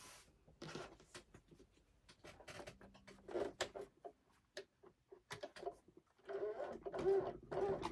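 Quilting fabric pieces being handled and trimmed, with irregular rustles and clicks. Near the end a sewing machine starts to run.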